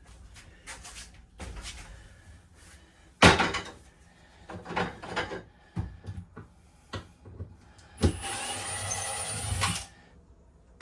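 Interior teardown noises: scattered knocks and clatter of panels and fittings being pulled loose, with one loud bang about three seconds in. Near the end comes a steady, noisy sound with a faint high whine that lasts about two seconds.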